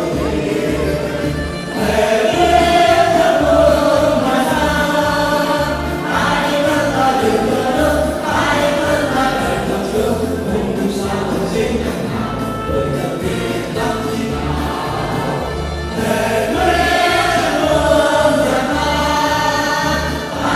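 Choir singing a song in unison over instrumental backing with a steady, rhythmic bass line.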